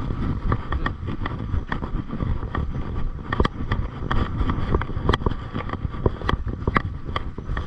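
Mountain bike being ridden over a dirt trail: wind buffeting the microphone and tyre rumble, with frequent sharp clicks and rattles as the bike jolts over rough ground.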